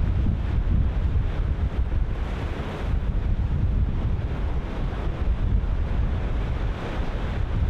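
Ocean surf breaking and washing in, with strong wind buffeting the microphone as a heavy, steady low rumble. The wash of the surf swells about two seconds in and again near the end.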